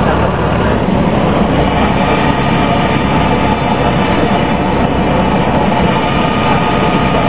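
Cessna light aircraft's piston engine and propeller droning steadily, heard from inside the cockpit, with a dense roar of cabin noise.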